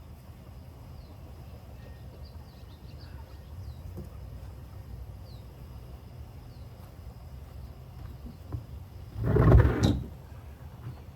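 Faint, short, high chirps from young chickens scattered through the first part, then a loud scraping noise lasting about a second near the end.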